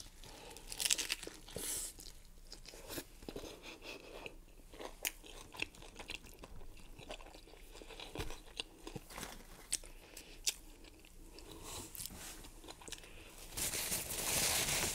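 Close-miked chewing and biting into a hard-shell crunchy taco: sharp crunches at irregular intervals, with a longer stretch of rustling noise near the end.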